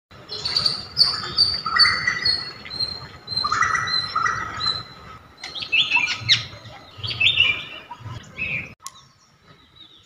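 Birds chirping and singing: a run of short repeated whistled notes for the first few seconds, then quicker, varied chirps, cutting off near the end.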